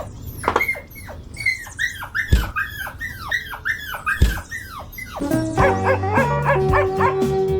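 Rapid high yelps of a small dog, each falling in pitch, with two dull thumps among them. Music with held notes comes in about five seconds in.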